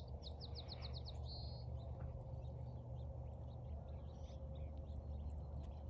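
Songbird singing: a quick run of about eight down-slurred high notes, then a short trill about a second and a half in, followed by scattered chirps. Under it runs a steady low rumble.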